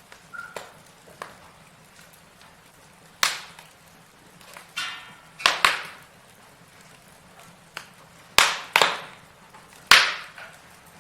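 Wood logs burning in a fireplace, crackling with sharp irregular pops over a faint steady hiss; the pops come every second or so, several in quick pairs, the loudest near the end.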